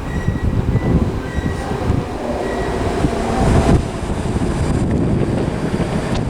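A Class 315 electric multiple unit arriving at the platform, its wheels and running gear making a steady, loud rail noise, with a faint high squeal on and off during the first two seconds or so.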